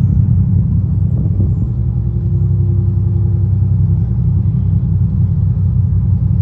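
Boat's engines running, a steady low rumble with a faint steady hum above it.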